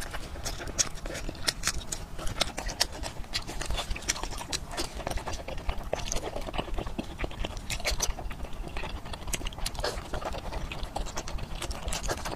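Close-miked wet chewing and smacking from eating braised pork hock skin and fat, with many quick, irregular mouth clicks.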